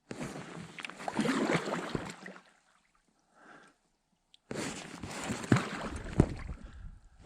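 Paddle strokes splashing beside an Alpacka packraft. The paddling stops for about two seconds and resumes with a few sharp knocks.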